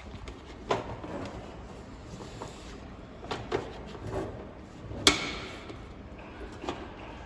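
A handful of sharp knocks and clacks, like things being handled and set down, the loudest about five seconds in, over a steady low background hum.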